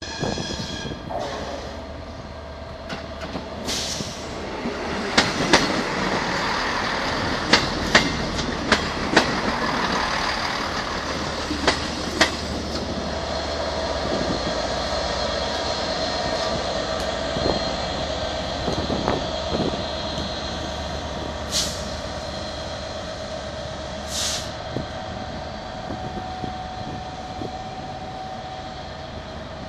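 Class 67 diesel-electric locomotive on the move with a train, its engine running under a continuous rumble. A run of sharp clicks from wheels over rail joints comes in the first half, then a steady whine holds through the rest.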